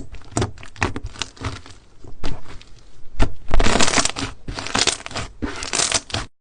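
Slime being squished and pressed by hand, making a run of sticky pops and crackles. Denser stretches of crackling come about three and a half seconds in and again near the end, then the sound stops abruptly.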